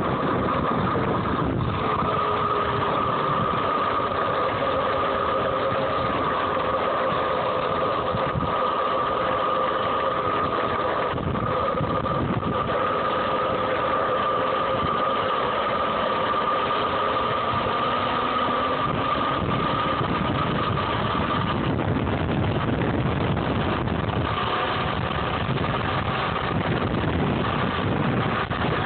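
Homemade DC electric dirt bike running under way: a steady high whine with lower tones that slowly slide up and down as speed changes, over rushing wind and ride noise.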